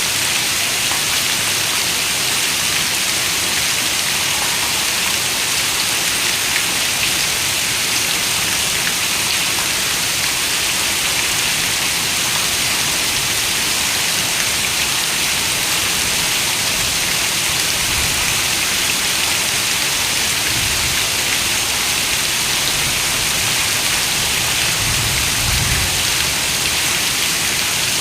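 Steady rain falling on a window, an even dense hiss with no break. A brief low rumble comes near the end.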